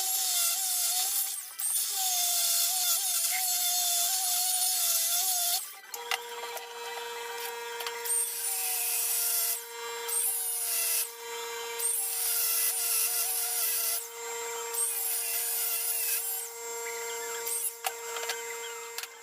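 A power tool working material, with a hiss of abrasive contact. For about the first six seconds its motor pitch wavers under load. After that a steadier motor tone runs under repeated surges of hiss, each as the work is pressed to it, and it stops near the end.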